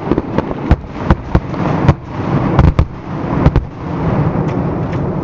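Fireworks going off in quick succession: a string of sharp bangs over a continuous rumble, with a steadier rumble taking over near the end.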